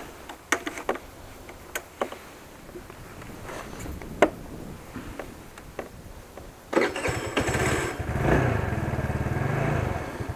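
A few sharp clicks and knocks, then about seven seconds in the small engine of a Yamaha R1 Mini pocket-bike catches and runs with a fast, even pulse, swelling louder about a second later. It is a cold start: the engine is still cold.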